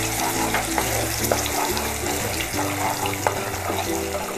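Ground red chilli and onion masala paste sizzling as it fries in hot oil in a kadhai while being stirred with a spoon, with a few light clicks of the spoon against the pan.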